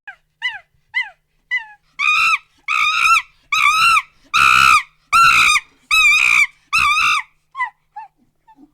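An animal calling over and over in high-pitched cries, about a dozen in all, roughly one and a half a second. They start short and faint, grow long and loud through the middle, then fade away near the end.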